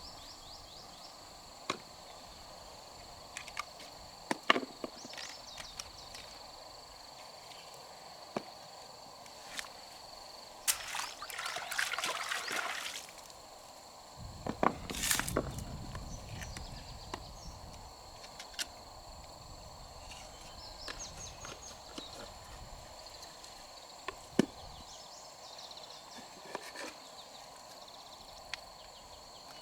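Freshwater mussel shells being handled and opened: scattered sharp clicks and knocks, with two short stretches of splashing or pouring water partway through.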